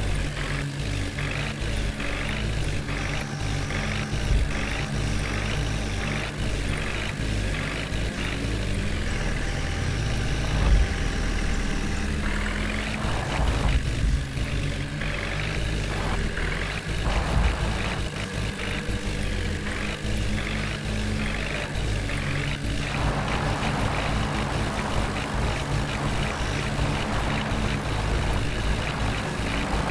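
Heavy diesel engines of a backhoe loader and farm tractors running steadily, with a low pulsing throb.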